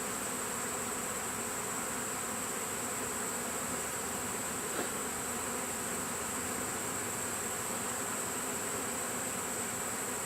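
Swarm of honeybees buzzing steadily as they crawl into a hive box, an even, unbroken hum, with a steady high-pitched tone running above it.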